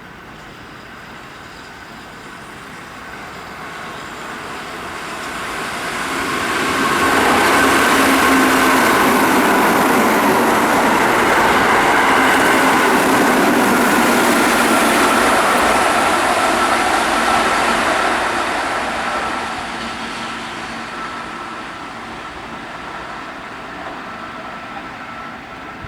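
Keihan 8000-series limited express electric train passing through at high speed. A rushing of wheels on rail and running gear swells, stays loud for about ten seconds, then fades away. A high whine through the loud part dips slightly in pitch as the train goes by.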